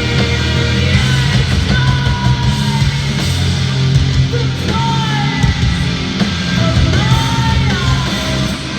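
Live punk rock band playing loud, with distorted guitar and a singer yelling over it, heard in a large arena.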